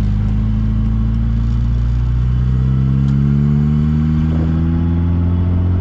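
MG Midget's four-cylinder engine pulling steadily in gear, its pitch rising slowly as the car gathers speed.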